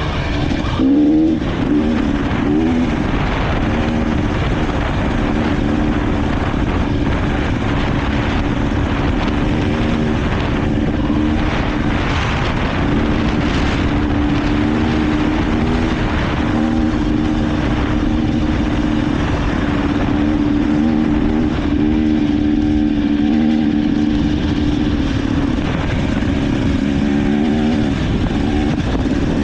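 Dirt bike engine running continuously, its pitch rising and falling repeatedly as the throttle is worked, over a constant rough noise.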